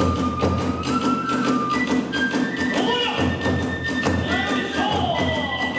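Kagura ensemble playing: drums and hand cymbals keep a fast, even beat while a bamboo transverse flute plays long held notes with some bending glides.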